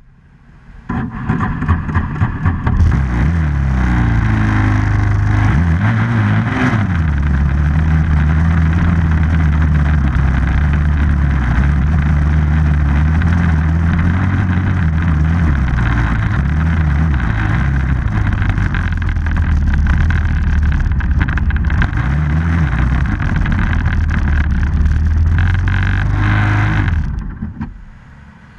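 Off-road vehicle engine running loudly and revving up and down, its pitch rising and falling again and again. It starts about a second in and drops away near the end.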